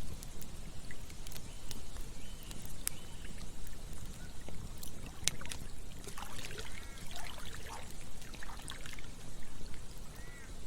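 Campfire crackling, with scattered sharp pops over a steady low rushing noise. A cluster of short chirping calls comes in about halfway through, and one more near the end.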